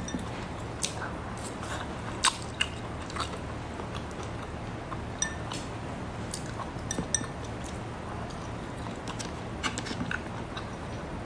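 Close-up mouth sounds of chewing raw arctic surf clam slices: wet, squishy chewing and lip smacks, heard as many short, sharp clicks scattered irregularly over a steady low background noise.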